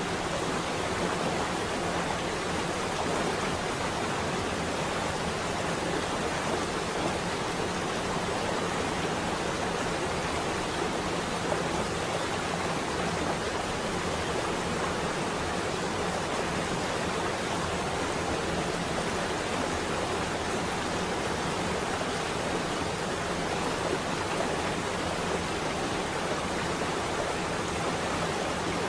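Steady rain on a window pane: an even, unbroken hiss.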